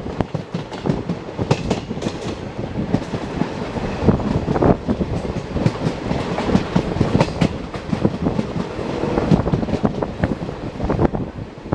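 Train running along the track, its wheels clattering over rail joints with a continuous rumble and many sharp clicks.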